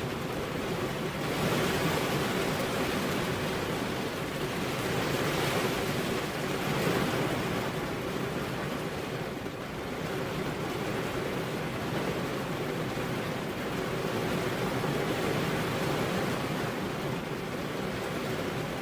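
Steady rain, a dense even hiss that swells and eases slowly every few seconds.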